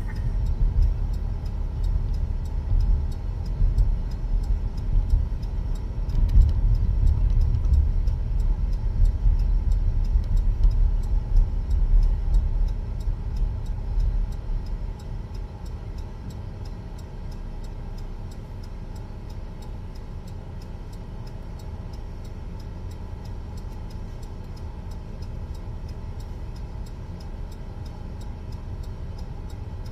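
Buick car driving, heard from inside the cabin: a low road and engine rumble that quiets about halfway through, to a lower steady level. A faint regular ticking runs underneath.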